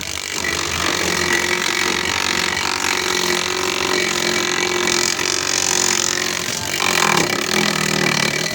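Homemade grass chopper driven by a washing-machine motor, running with a steady mechanical whir and hum. The sound brightens about five seconds in and shifts again near seven seconds.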